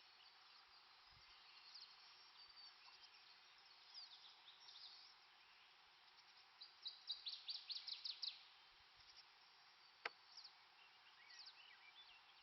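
Quiet lakeshore ambience: a faint steady hiss with small birds chirping high and thin, and a quick run of about a dozen sharp chirps in the middle. A single sharp click comes about ten seconds in.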